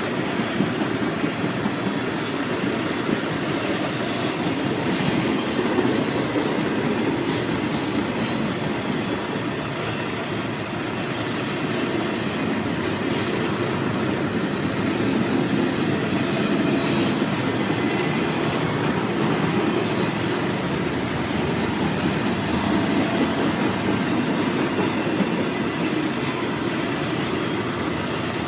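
Norfolk Southern freight train rolling past at a steady level: a continuous rumble of steel wheels on rail, with scattered sharp clicks and clanks from the cars.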